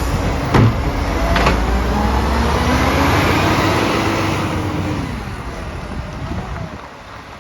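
Garbage truck's diesel engine running and revving up, with a sharp knock near the start, then fading as the truck moves off.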